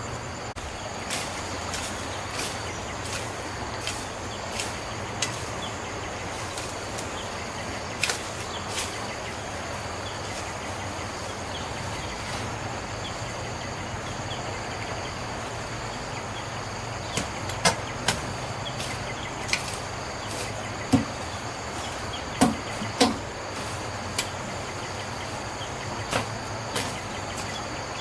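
Scattered knocks and clicks, a few sharper ones in the second half, over a steady background noise with a faint high-pitched hum.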